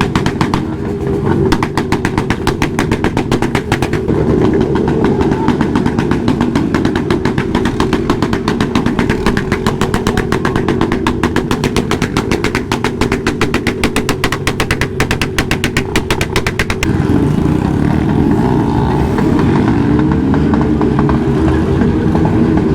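Motorcycle engine running close by with a fast, even pulsing beat. About 17 seconds in it changes to a smoother sound that rises and falls in pitch as the engine is revved.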